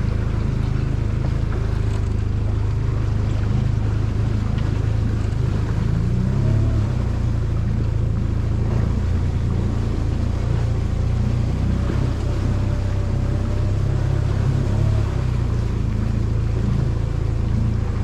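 Small outboard motor running steadily at low speed, pushing a boat through shallow water, its pitch shifting briefly about six seconds in and again near fifteen seconds.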